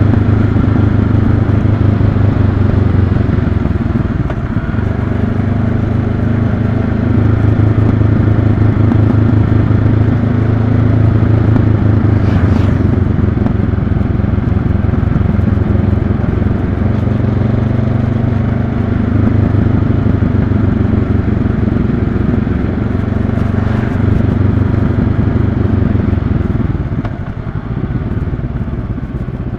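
2022 Honda CB500X's parallel-twin engine running steadily while the motorcycle is ridden, heard close up. Near the end the engine note drops and gets quieter.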